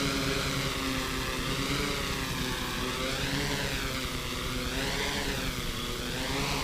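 Quadcopter propellers whining as the drone hovers and descends slowly to land. The pitch swells up and falls back about three times as the motors adjust.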